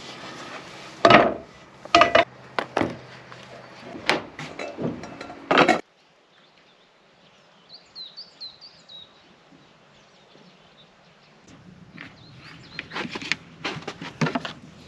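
Sharp wooden knocks and clatter of boards and tools being handled in the log hut, stopping abruptly about six seconds in. After that comes quiet woodland air with a small bird chirping a few quick notes, then more knocking and handling noises near the end.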